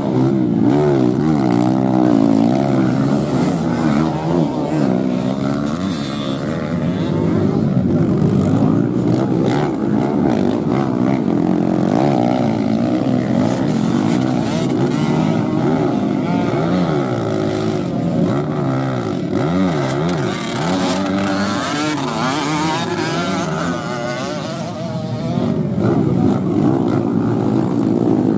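Several dirt-bike engines racing at once, revving up and down, their overlapping pitches rising and falling steadily.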